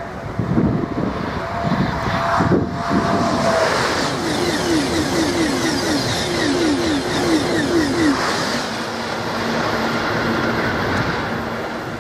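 A Eurostar Class 373 high-speed electric train rushing past at speed. For a few seconds in the middle its coaches set up a rapid rhythmic beat, then it settles to a steady rush with a low hum.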